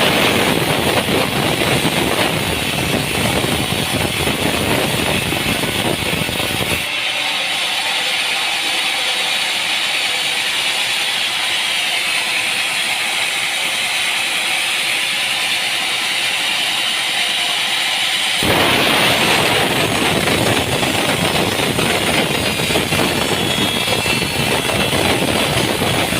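Sawmill machinery running with a loud, steady mechanical noise. The sound changes abruptly about seven seconds in, thinning to a high hiss, and again around eighteen seconds, when the fuller, deeper running noise returns.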